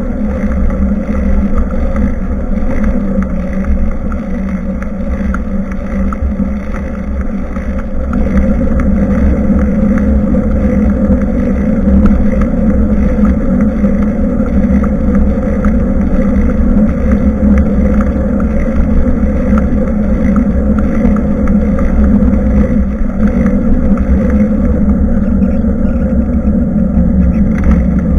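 Steady wind and road rumble on a bicycle-mounted action camera's microphone during a ride, loud and unbroken, with a deep low rumble throughout.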